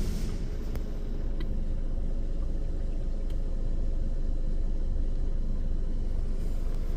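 Washworld Razor in-bay car wash running its triple foam pass, heard from inside the car: a steady low rumble of spray and machinery on the bodywork with a faint steady hum.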